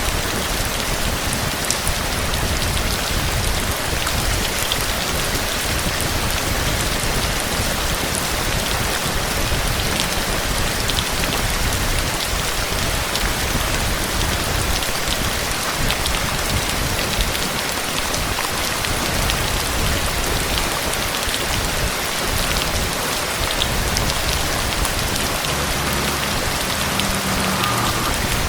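Steady heavy rain: a dense, even hiss with scattered drop ticks and a low rumble underneath.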